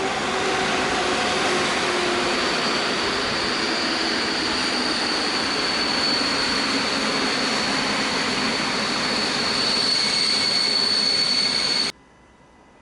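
Train passing close by: a loud, steady rush of wheels on rails with a steady high whine, cutting off suddenly near the end.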